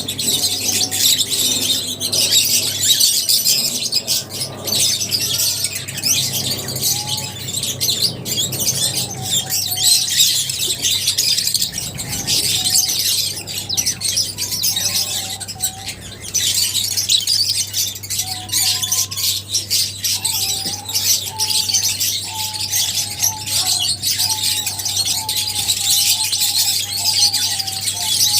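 A colony of lovebirds chattering, with many shrill chirps and squawks overlapping continuously, over a steady low hum.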